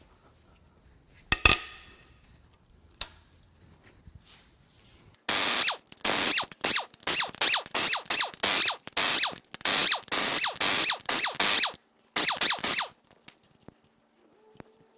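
Power tool running in short repeated bursts for about seven seconds, spinning the cylinder head bolts out of an iron L31 5.7L Vortec V8. A single sharp crack about a second and a half in, as a tight head bolt breaks loose.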